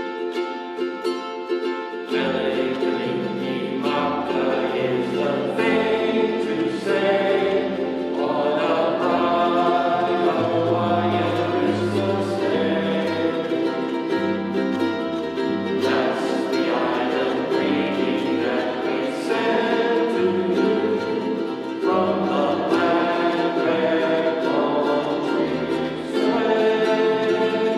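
A ukulele ensemble strumming a Christmas carol together, with voices singing along; a low bass part joins about two seconds in.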